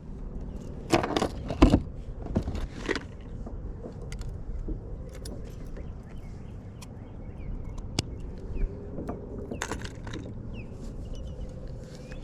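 Fishing tackle being handled while a new lure is tied on: scattered small clicks and clinks of metal hooks and hardware, a few close together near the start and more further on, over a low steady rumble.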